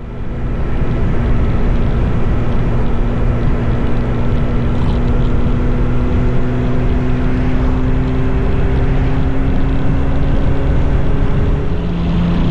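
Motorcycle engine running at a steady cruise under a heavy rushing noise, its pitch rising slowly.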